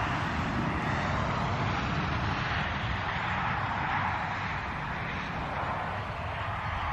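Steady rushing noise of a passing vehicle, slowly fading.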